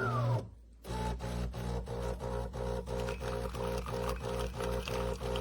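De'Longhi Rivelia automatic espresso machine brewing: a motor whine falls in pitch and stops in the first half second, and after a short gap the brewing pump sets in with a low buzzing hum that pulses evenly about four times a second as it pushes water through the coffee.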